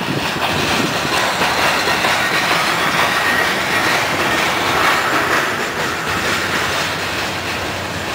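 Freight train of covered hoppers and tank cars rolling past close by: a steady rumble of steel wheels clacking over rail joints. A faint wheel squeal rises in the middle.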